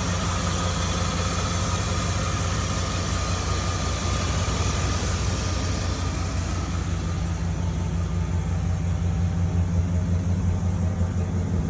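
1999 Dodge Ram 1500 Sport pickup's engine idling steadily, running smoothly, which the owner calls perfect.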